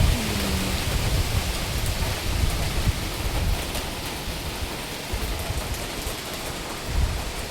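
Heavy rain pouring steadily in a typhoon, with gusts of wind rumbling on the microphone that are strongest at the start and ease off.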